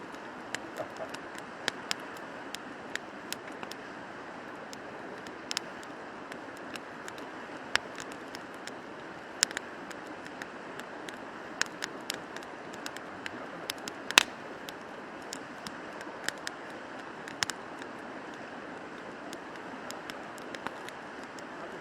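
Steady rushing of a river, with irregular sharp clicks and taps scattered over it, one louder knock about two-thirds of the way through.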